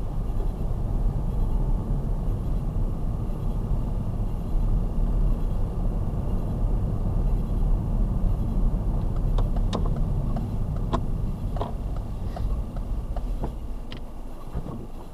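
Car on the move: a steady low rumble of engine and road noise, with scattered sharp clicks and taps over the second half.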